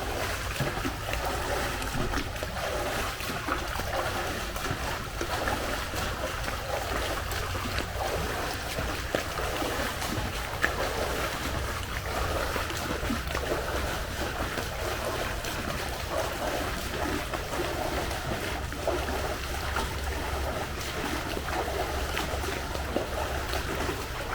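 Pool water sloshing and splashing steadily as a person moves through it, with a low rumble of wind on the microphone.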